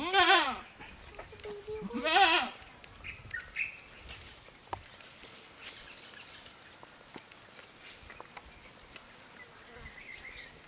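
A goat bleating twice, loud and wavering: once right at the start and again about two seconds in, each call lasting about half a second. Faint rustling and small knocks follow.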